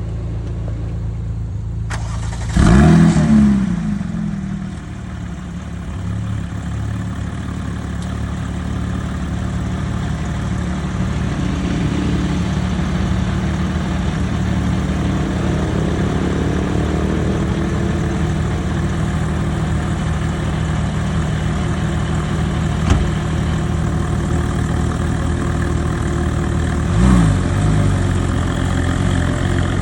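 Porsche 911 GT3 RS flat-six with JCR aftermarket exhausts starting up. It fires with a loud, rising flare about three seconds in, then settles to a steady idle, with a short rev blip near the end.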